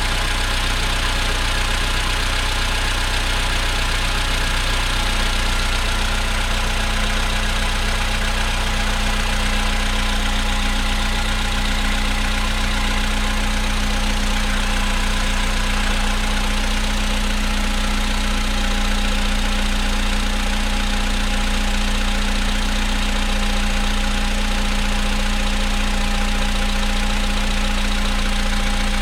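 Volkswagen Polo sedan engine idling steadily after a cold start, with the knocking that the owner films as a cold-start fault.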